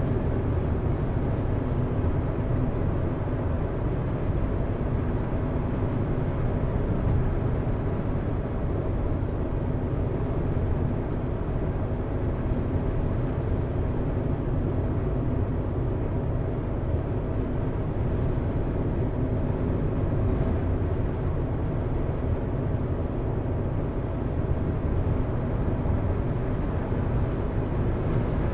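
Car driving at a steady pace: a steady low rumble of engine and tyre noise on the road, with a faint hum of higher tones running through it.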